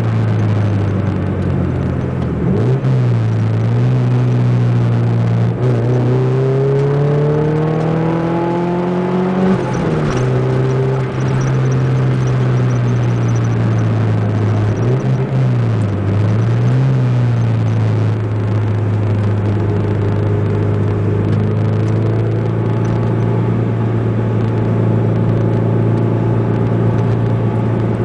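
Ford Zetec four-cylinder engine breathing through a 4-into-1 exhaust header on a drive, running with a loud, steady drone. The revs dip briefly twice, and near the middle they climb for a few seconds, then drop back sharply.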